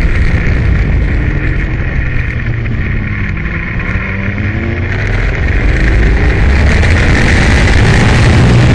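Aprilia Tuono motorcycle engine at track speed under heavy wind rush. It eases off for a couple of seconds, then pulls hard again, rising in pitch and loudness.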